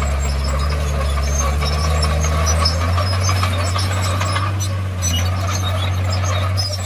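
Komatsu D51PX bulldozer's diesel engine running steadily, with scattered high clinks over it; the engine note shifts about three seconds in.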